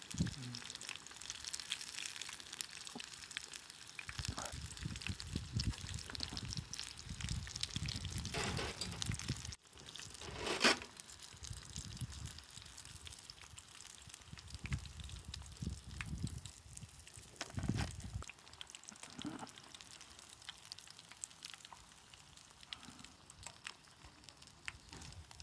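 Hot oil sizzling and crackling around battered shrimp and squid rings deep-frying over a campfire, with scattered knocks from handling and one sharper clatter about ten seconds in.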